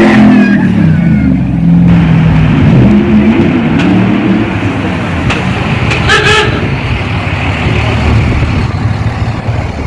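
A car engine revving, its pitch rising and falling over the first couple of seconds, then running steadily. A brief higher-pitched tone sounds about six seconds in.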